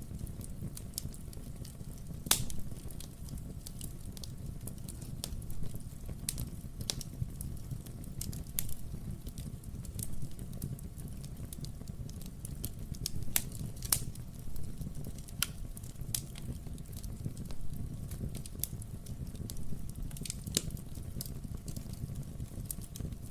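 Wood fire burning in a fireplace: a steady low rumble of flame with irregular crackles and sharp pops from the burning logs.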